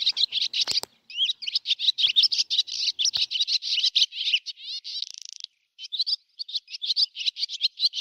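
Rapid, high-pitched bird chirping, many chirps a second, with brief breaks about a second in and around five and a half seconds in.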